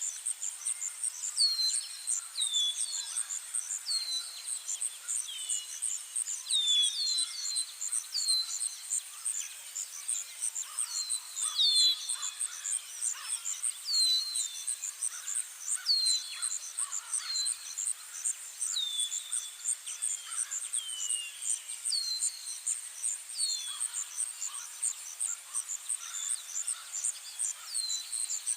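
Outdoor nature ambience: a steady, high, pulsing insect trill under repeated bird calls, each a short chirp that slides downward in pitch, coming about once a second throughout.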